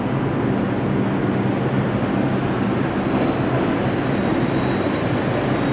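New York City subway 5 train at the station platform, a steady, loud train noise with a low hum and a faint high whine that comes in about three seconds in.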